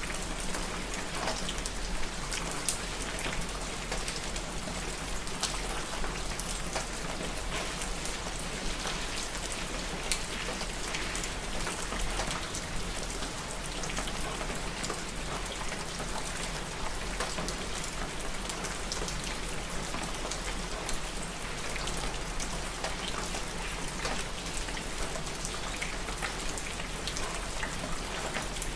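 Steady rain falling, the drops pattering on a surface as an even hiss with many small ticks.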